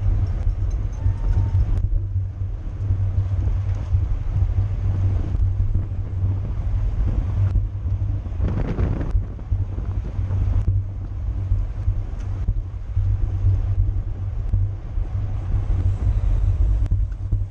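Wind buffeting the microphone of a camera carried on a racing bicycle at speed, a heavy steady rumble. A brief louder rush comes about halfway through.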